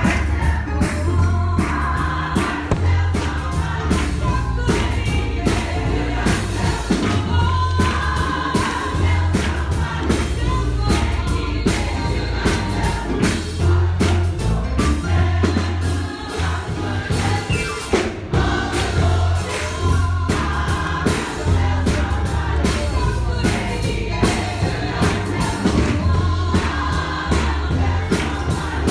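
A church congregation singing a gospel song together, with a pulsing bass line and a steady percussive beat under the voices.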